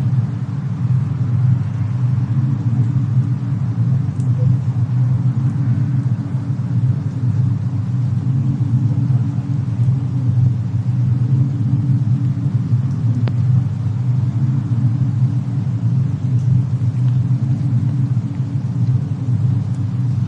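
Steady low rumble of a fireplace-and-snowstorm ambience track, unbroken throughout, with a couple of faint, isolated crackles.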